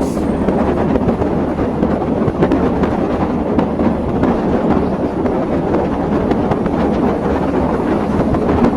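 Steady rumble and rattle of a moving passenger train, heard from on board.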